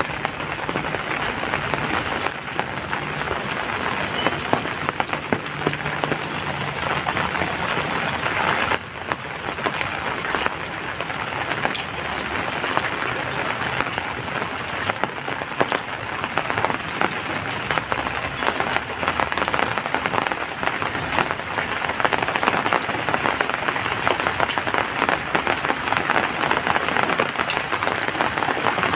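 Heavy rain falling steadily, a dense patter of drops hitting surfaces, with a brief dip in level about nine seconds in.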